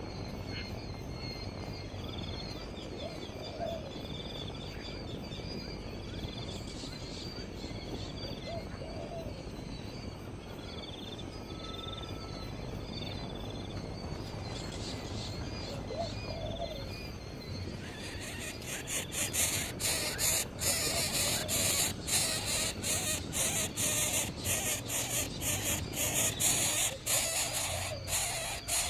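Faint bird calls over steady outdoor background noise, then a dense run of sharp clicks and crackles starting about two-thirds of the way through.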